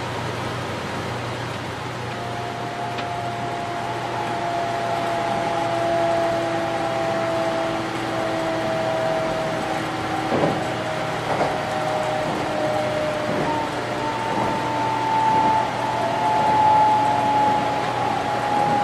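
Inside the driver's cab of a 500 series Shinkansen: steady running noise with several whining tones that drift slowly down in pitch as the train slows for a sharp curve with a 90 km/h limit, and a few knocks.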